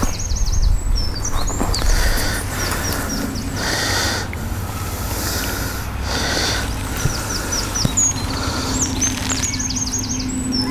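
Small songbirds singing: quick runs of high chirping notes near the start and again in the second half, over a steady low rumble.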